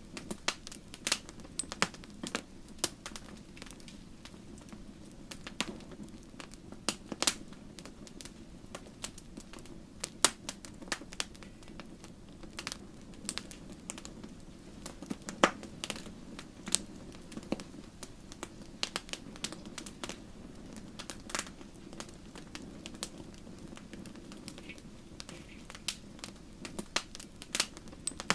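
Wood fire burning in a fireplace, the logs crackling with irregular sharp pops, some louder than others, over a low steady hum of the flames.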